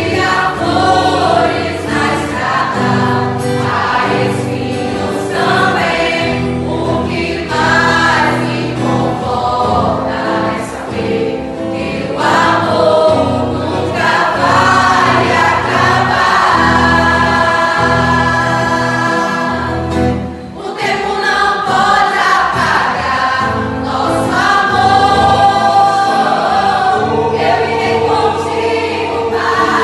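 Mixed choir of men and women singing a gospel song, with held, sustained notes; the singing breaks off briefly about two-thirds of the way through, then resumes.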